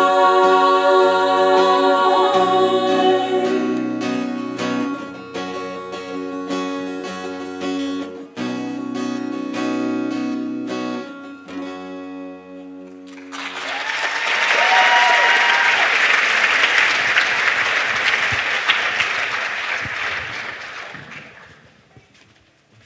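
A show choir holds the final chord of the song over strummed guitar chords, and the accompaniment plays on to the end. About thirteen seconds in the audience starts applauding and cheering, and the applause dies away near the end.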